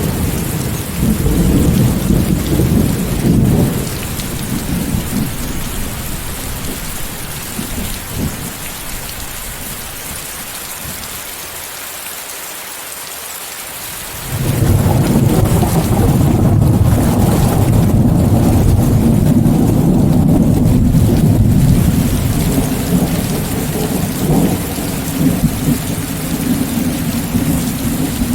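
Steady rain mixed with white noise, with rolling thunder. A rumble dies away over the first several seconds, then about halfway through a loud thunderclap starts suddenly and rolls on for several seconds before fading.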